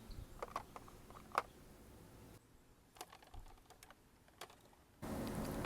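A few faint, scattered light clicks and taps, about seven in all, some close together in pairs.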